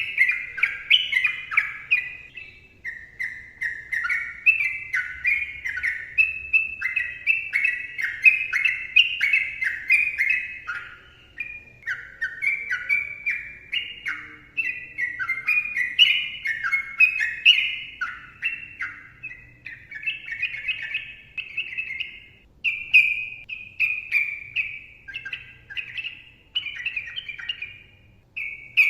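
Yellow-vented bulbul (trucukan) singing a long, fast, almost unbroken chatter of short rising and falling notes, the 'ropel' song, with only brief pauses.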